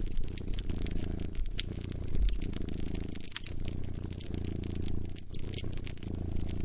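A cat purring in a steady low rumble that pauses briefly with each breath, about every one and a half to two seconds, over the sharp pops and crackles of a wood fire.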